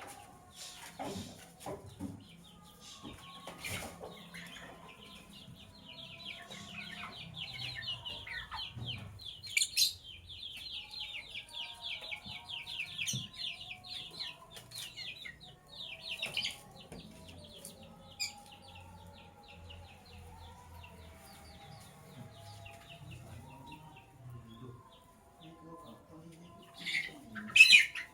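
Lovebirds chattering: a long run of rapid, high twittering chirps through the middle, broken by sharp shrill calls, the loudest pair near the end.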